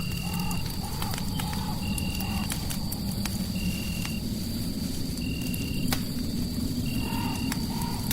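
Crackling fireplace ambience mix: scattered sharp pops over a steady low rumble, with a short high chirp repeating about every second and a half and a faint steady high tone. Wavering mid-pitched calls rise in the first two seconds and again near the end.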